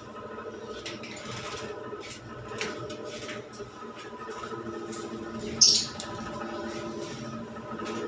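Caged pet birds giving short chirps over a steady background hum, with one loud, sharp squawk a little past halfway.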